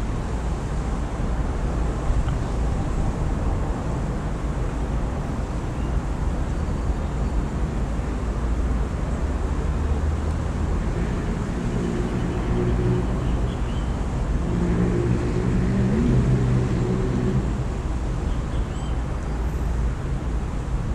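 Steady low traffic rumble. A vehicle engine passes through the middle of the stretch, with a brief rise in pitch, and a few faint bird chirps sound above it.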